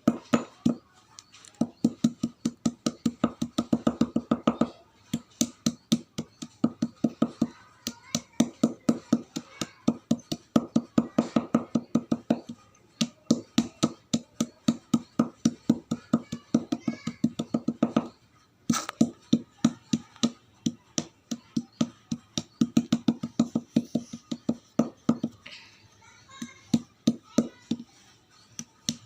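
Chalk being crunched: rapid, sharp crunches at about five a second, coming in runs of several seconds separated by brief pauses.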